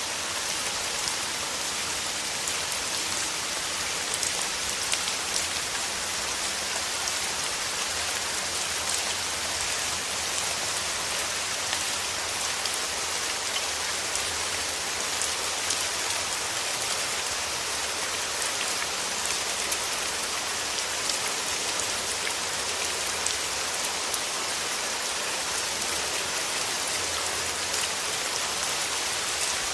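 Steady rain falling, a constant dense hiss of many drops with fine pattering ticks.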